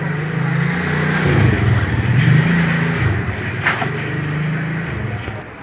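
A motor vehicle's engine running and revving, its pitch rising and falling for about five seconds before it fades near the end.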